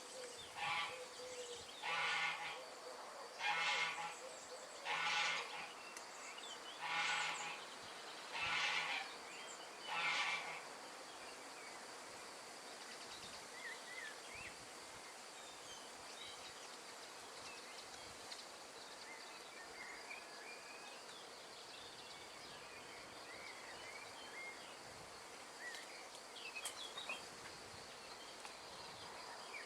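Outdoor nature ambience: an animal calls seven times in a row, short calls about a second and a half apart, over the first ten seconds. Faint scattered bird chirps follow over a steady background hiss.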